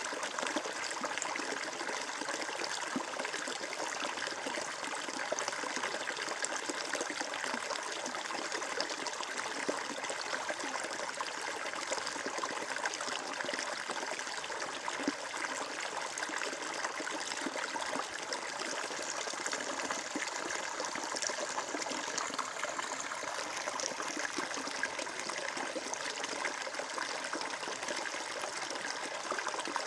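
Water flowing and trickling steadily in a stream, an even rushing babble with no breaks.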